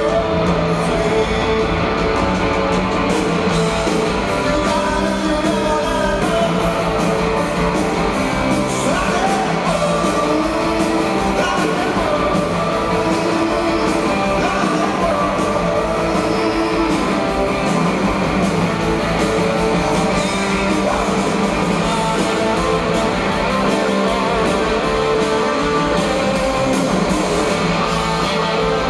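Live rock band playing a song: guitars, with singing.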